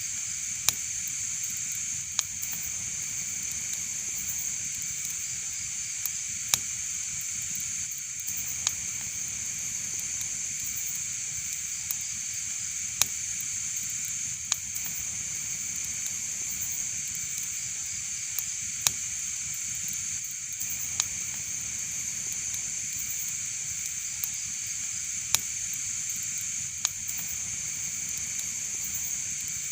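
Wood fire crackling: a steady hiss, broken by sharp pops every second or two.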